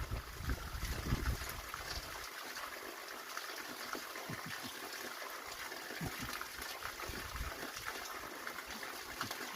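Running water of a mountain stream: a steady, even rush. In the first two seconds some low thumps sound under it.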